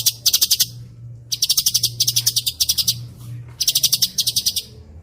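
Songbird tutor song of fast rolling trills: repeated bursts of rapid high-pitched notes, each about half a second long, about six in a row. A low steady hum runs underneath.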